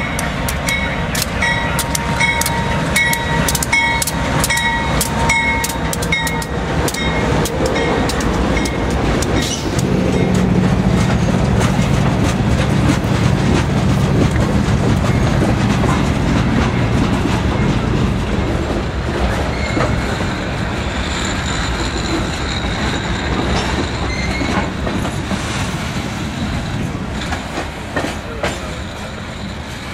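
CSX GE CW40-8 diesel locomotive passing close by, its V16 engine running with a strong low hum through the middle, then covered hopper cars rolling past with wheels clicking over rail joints. A grade crossing bell pings steadily for the first several seconds.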